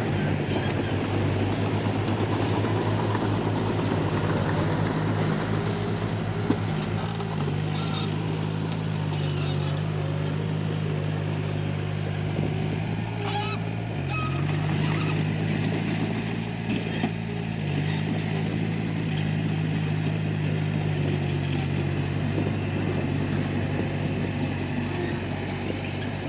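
Komatsu D31P bulldozer's diesel engine running steadily under load, its pitch dipping briefly about halfway through, with a few sharp clanks as it works.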